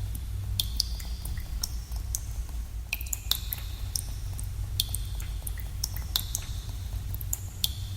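Water drops falling into pools in a cave: irregular plinks, several a second, each with a short high ringing tail, over a steady low rumble.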